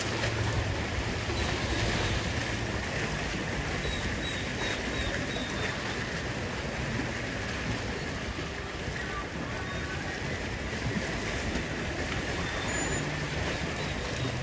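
Steady outdoor noise of wind and sea water, with a faint low hum underneath and a few faint high chirps.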